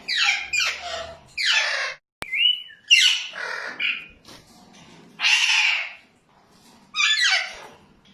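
Alexandrine parakeets calling: loud, harsh squawks that fall in pitch, several in quick succession, with one longer rasping call just past the middle.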